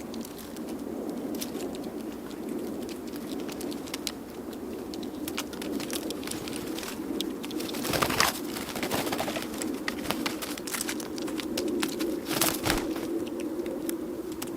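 Doves cooing in a steady, wavering drone, with scattered sharp clicks and taps, the loudest about eight seconds in.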